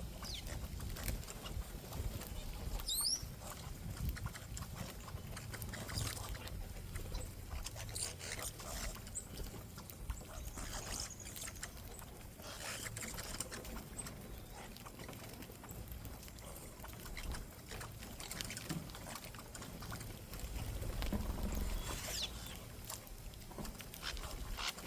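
Backyard bird feeder ambience: a low wind rumble on the microphone, scattered small clicks and taps, and a few brief high bird chirps, one about three seconds in and another near the end.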